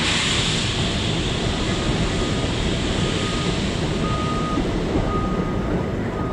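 A train running past: a steady rumble and rushing noise, with a high hiss loudest at the start that eases off, and a faint high squeal on and off.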